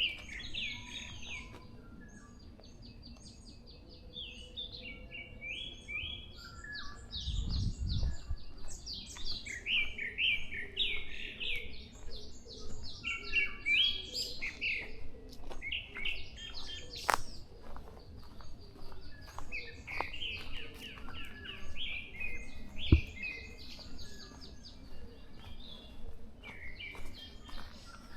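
Several forest birds chirping and singing, with many short, quickly repeated high notes overlapping throughout. A low thump comes about eight seconds in, and a sharp tap about twenty-three seconds in stands out as the loudest single sound.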